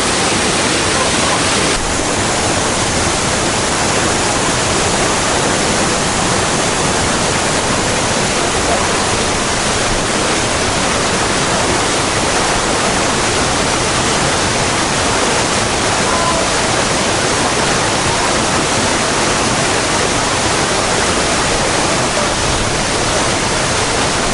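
Waterfall and rapids rushing close by: a loud, steady wash of falling water.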